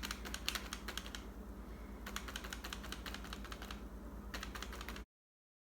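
Paintbrush tapped repeatedly on drawing paper to dab in tree foliage: runs of quick, light taps with short pauses between them. The sound cuts off suddenly about five seconds in.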